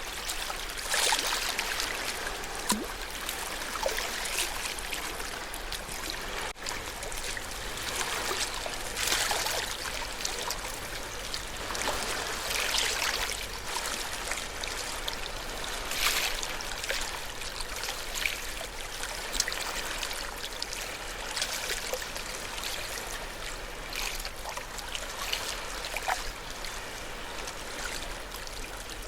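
Ocean waves washing and fizzing on a shore, the sound swelling and falling back every few seconds.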